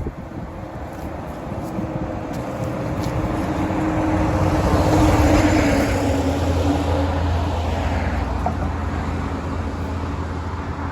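A motor vehicle going past, swelling to its loudest about five seconds in with a slightly falling engine note, then fading, while a low steady hum carries on.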